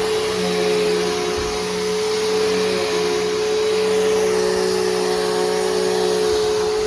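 Bissell Powerforce Helix Turbo upright vacuum running steadily, with a constant motor whine over the rush of air. Its new brushroll and belt are turning with no squeal or rattle to be heard.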